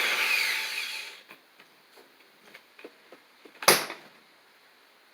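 Hammer drill running and winding down, fading out over about the first second. A few light clicks follow, then one sharp, loud knock about three and a half seconds in.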